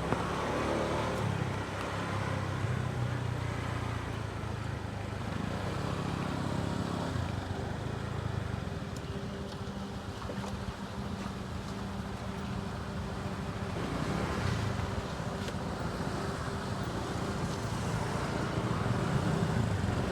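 Motorbike engine running steadily while riding, its pitch wavering gently, over road and traffic noise.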